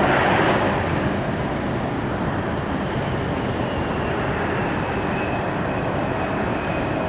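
Jet airliner engines running: a steady broad roar that eases a little about a second in, with a thin high whine coming up in the second half.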